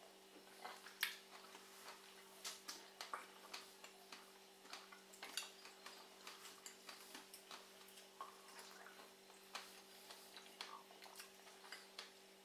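Two people chewing fresh strawberries close to the microphone: soft, irregular mouth clicks and smacks over a faint steady hum.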